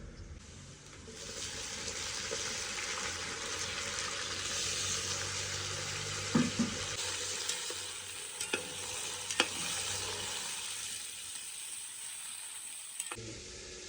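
Food sizzling in hot oil in a cooking pot, a steady hiss that builds about a second in and cuts off shortly before the end. A few sharp knocks of a utensil against the pot sound in the middle.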